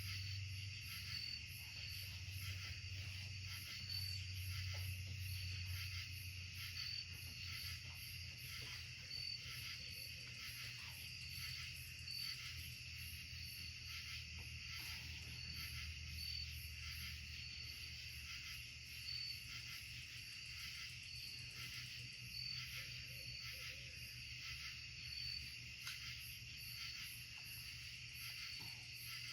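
Woodland insect chorus: several steady, layered high trills, with a short chirp repeating about once a second over a faint low hum.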